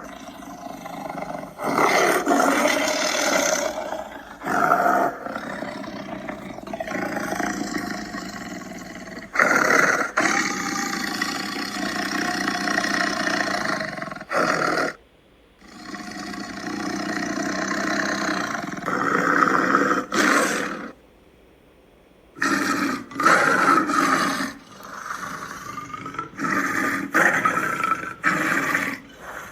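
Big cats roaring: a run of loud roars in short, abruptly cut clips, broken twice by brief silences.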